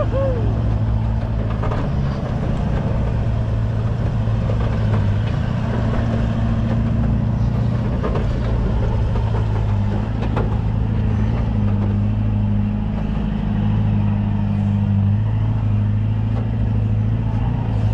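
Four-wheel-drive engine pulling under load up a soft sand track, running steadily with its revs stepping up and down a few times.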